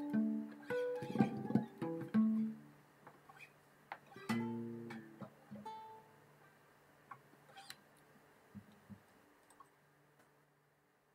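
Plucked string instrument playing the last phrase of a slow instrumental piece, closing on a final chord about four seconds in that rings and slowly fades, with a few faint clicks as it dies away.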